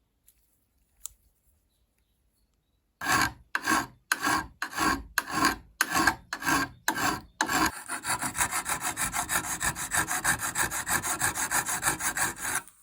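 A hand tool scraping back and forth on a workpiece: about nine slow strokes begin a few seconds in, then a fast run of short strokes, several a second, that stops suddenly near the end.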